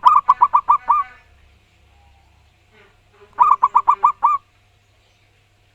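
Zebra dove (perkutut) singing: two quick phrases about three seconds apart. Each phrase is a rapid run of about six clear cooing notes, and the last note is drawn out a little.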